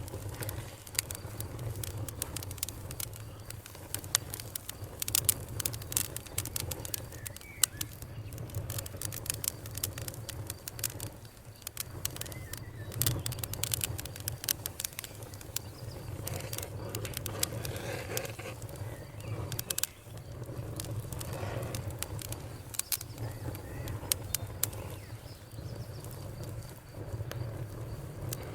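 Wood fire burning, with many sharp crackles and pops scattered at irregular intervals over a low, steady rumble of the flames.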